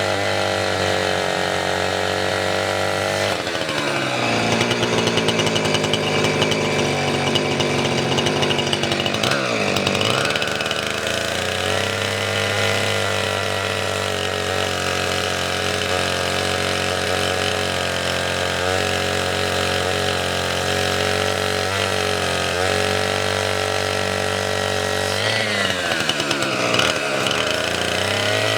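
Two-stroke gasoline chainsaw running continuously while cutting firewood. Its engine note dips and recovers about 3 seconds in, around 10 seconds in and near the end, as the chain bites into the wood.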